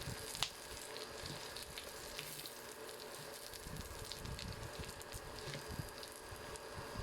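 Faint crackling and hissing of food cooking in a pan, with one sharp click about half a second in.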